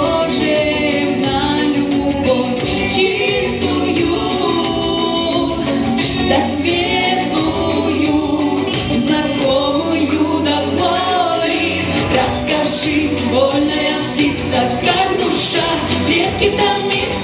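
A female vocalist singing a song over instrumental accompaniment with light shaker-like percussion.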